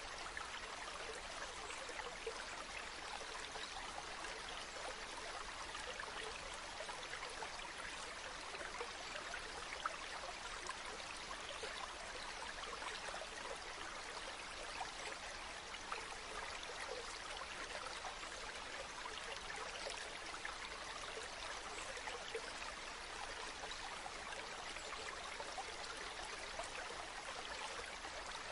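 Small stream of spring water running and trickling steadily, with fine splashes.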